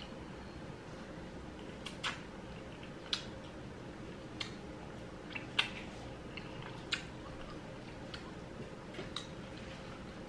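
Someone chewing spicy noodles and watermelon: faint mouth sounds with small sharp clicks, roughly one a second.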